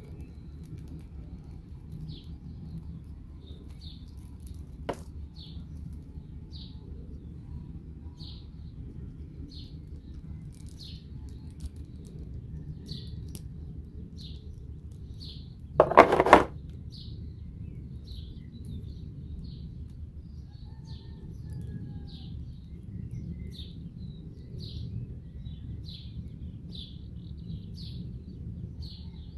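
A bird chirping over and over, short high chirps about once a second, over a steady low background noise. A sharp click about five seconds in, and a brief, louder clatter a little past halfway.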